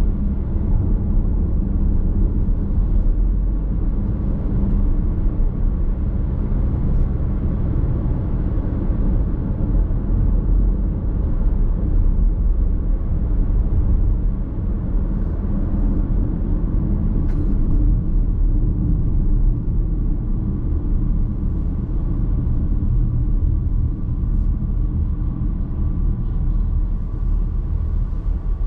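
Car driving at a steady pace, heard from inside the cabin: a constant low rumble of tyre and road noise with a hum from the drivetrain. A single faint click comes about seventeen seconds in.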